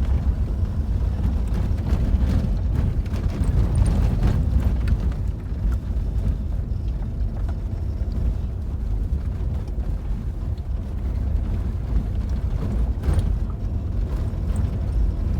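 Vehicle driving over a rough track: a steady low rumble with scattered knocks and rattles.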